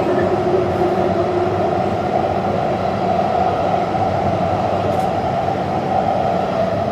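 Taipei Metro Zhonghe–Xinlu line train running steadily between stations: an even, unbroken running noise from the wheels and rails.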